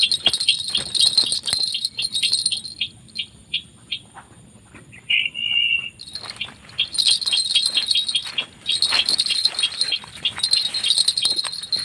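Sintar ladang bird calls: runs of rapid, high chirping and ticking notes, stopping for a few seconds about a third of the way in, with one short call in the gap, then starting again.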